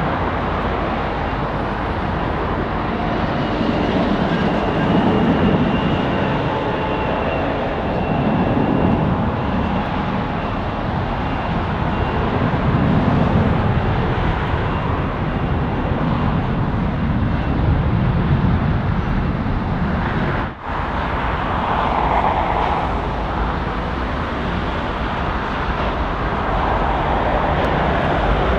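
Boeing 747-8 freighter's four GEnx-2B engines at taxi power: a steady jet rumble that swells and eases every few seconds. There is a brief break in the sound about twenty seconds in.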